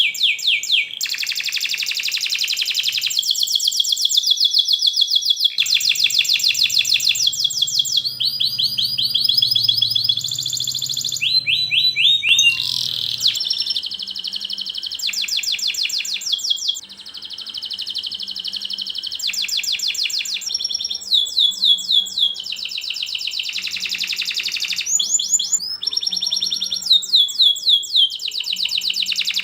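Domestic canary singing a long, continuous song of fast rolling trills and repeated chirping notes, switching to a new phrase every second or two.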